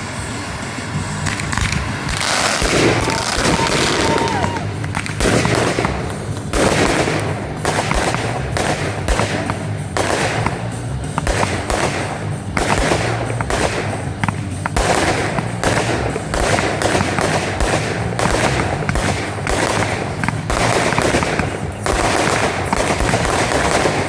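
Fireworks display: a dense run of bangs and crackling bursts that starts about two seconds in and keeps going.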